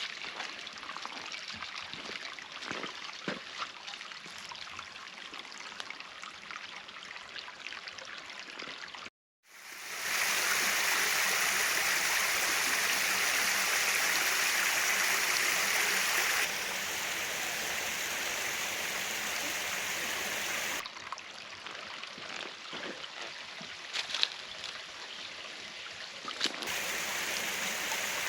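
Creek water running and trickling over rocks, broken by several abrupt cuts. In the middle stretch there is a louder, steady rush of falling water, and a fainter trickle with small splashes before and after it.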